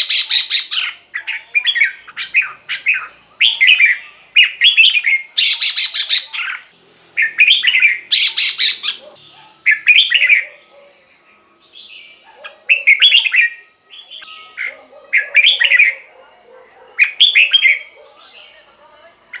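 Red-whiskered bulbul singing: short, bright warbled phrases repeated every second or two, a few of them louder and harsher.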